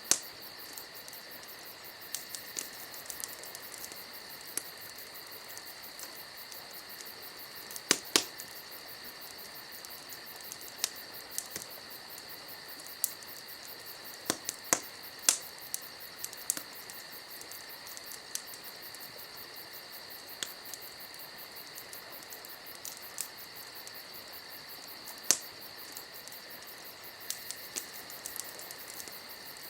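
Wood fire crackling: scattered sharp pops and snaps, a few louder than the rest, over a steady high-pitched background tone.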